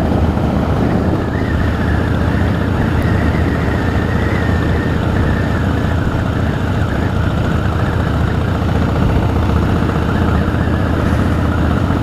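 Harley-Davidson Rocker C's V-twin engine running steadily while the motorcycle is ridden at a constant pace.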